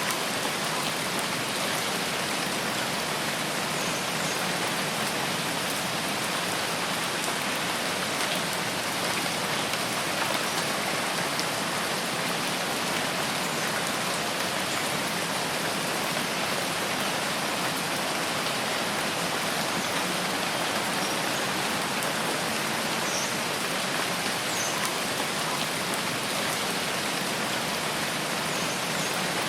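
Steady rain falling, an even unbroken hiss of drops, with a few faint short high chirps now and then.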